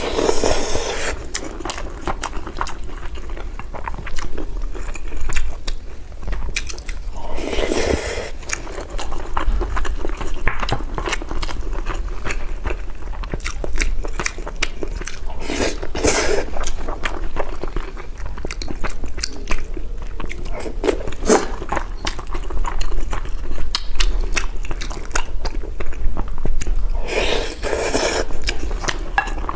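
A person eating braised pork belly over rice close to the microphone: steady chewing with many small clicks, and a louder mouthful now and then, four times in all.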